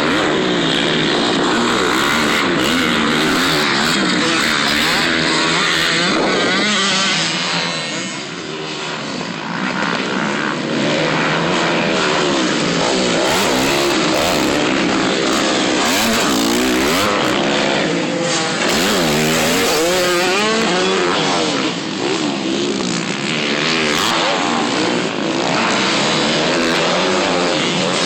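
Several motocross dirt bikes running at once, their engines revving up and falling off again and again. There is a brief dip in loudness about eight seconds in.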